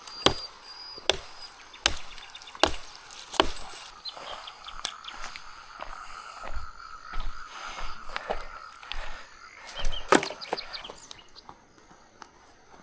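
Wood being chopped for a campfire: five sharp strikes about three-quarters of a second apart, then a pause and a few more strikes around ten seconds in. A steady high trill runs in the background for a few seconds in the middle.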